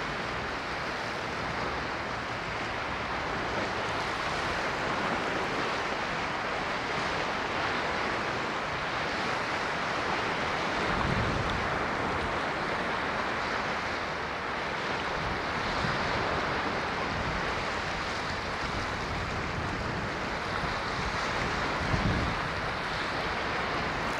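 Ocean waves washing on a shore: a steady rushing surf, with a low thud of a breaking wave about halfway through and again near the end.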